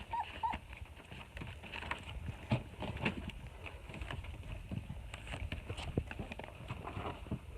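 Four-week-old German Shepherd puppies moving about, with light scattered taps and scuffs throughout and two short squeaks in quick succession right at the start.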